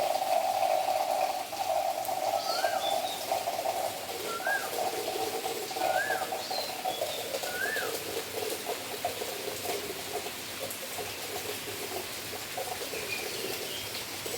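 Birds calling outdoors: four short rising-and-falling whistled notes about every one and a half to two seconds, with fainter higher chirps, over a steady droning hiss that runs throughout.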